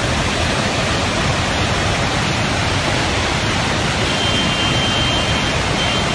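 Fast-flowing floodwater rushing steadily and loudly. A faint, thin high tone comes and goes near the end.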